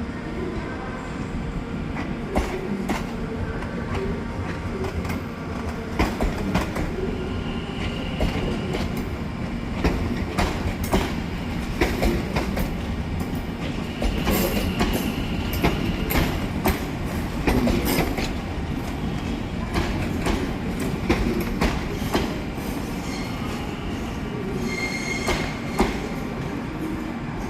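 A train rolling along the rails with a low rumble and a rapid, irregular clatter of wheels over rail joints and points, with short high-pitched wheel squeals about eight seconds in, again around fourteen to sixteen seconds, and near the end.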